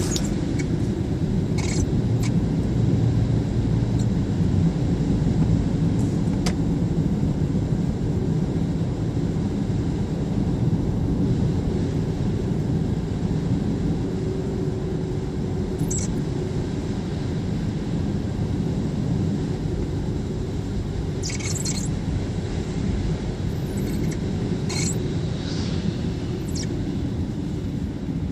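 Steady road and drive rumble inside a new-model Toyota Prius cabin, with short, high-pitched squeaks now and then, most of them in the last third, coming from behind the steering wheel. The squeak is an abnormal noise that grew worse in cold weather and that Toyota traced to a faulty part behind the wheel.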